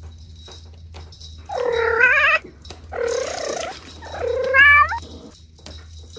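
A cat meowing three times in quick succession, the first and last meows wavering and rising in pitch at the end.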